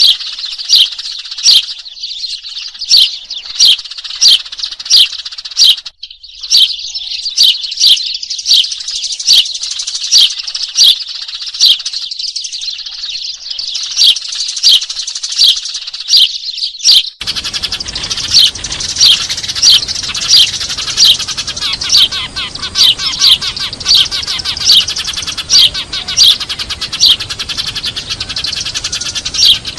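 A flock of Eurasian tree sparrows chirping noisily, a busy chatter with loud single chirps repeated every second or so. About seventeen seconds in, a faint steady hiss joins underneath.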